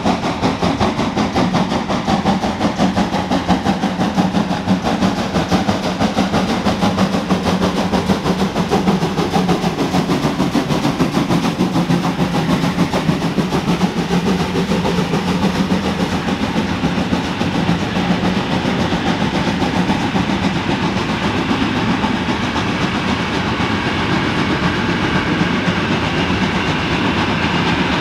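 Steam-hauled train running past on the rails, a steady, loud sound with a fast, even rhythmic beat all through.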